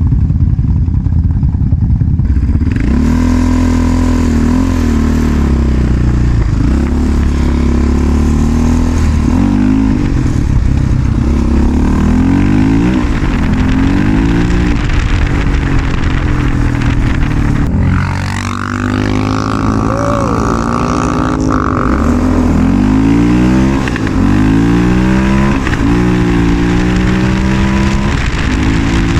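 Quad bike engine running under load while riding, revving up and dropping back again and again, its pitch climbing and falling every second or two, with a short let-off about two-thirds of the way through.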